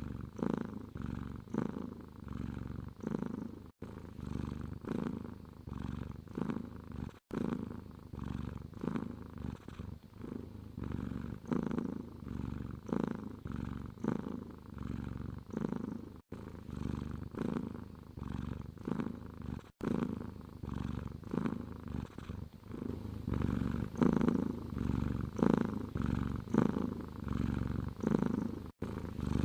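Domestic cat purring close up, swelling and fading in a steady breathing rhythm. The sound cuts out for an instant a few times.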